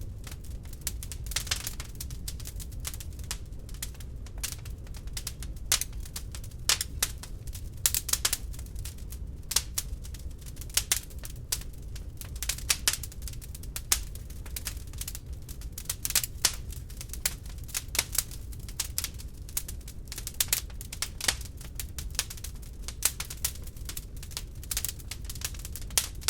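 Wood log fire crackling in a fireplace: irregular sharp pops and snaps, several a second with now and then a louder one, over a low steady rumble.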